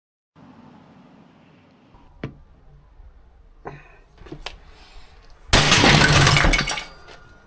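A few light knocks, then about five and a half seconds in a loud crash of breaking and shattering lasting about a second and a half: an appliance being smashed with a hammer.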